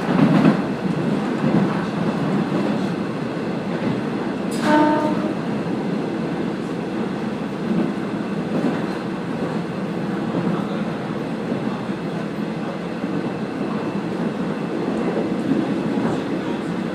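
Passenger train running along the line, heard from inside the car: a steady rumble of wheels and running gear. About five seconds in, a brief tone sounds for about half a second.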